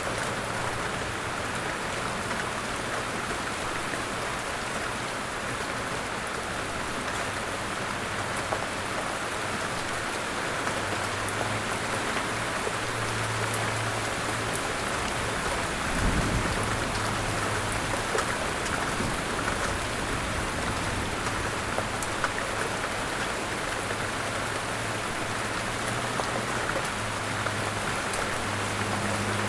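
Steady rain falling, an even hiss of drops on surfaces, with a low hum that comes and goes. A single thump about sixteen seconds in.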